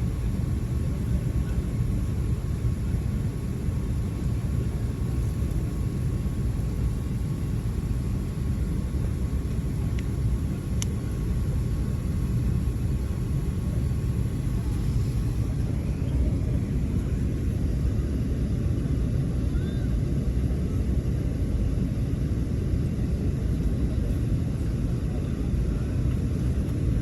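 Steady low rumble of cabin noise inside an Emirates Airbus A380 airliner.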